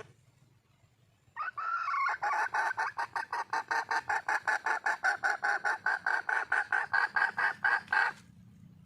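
Junglefowl hen calling: a drawn opening note, then a long run of quick repeated clucking notes at about five a second that stops abruptly, the call a wild hen gives to attract a male.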